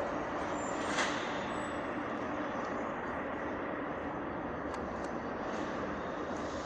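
Motorcycle running, a steady even noise with no horn sounding, and a short click about a second in.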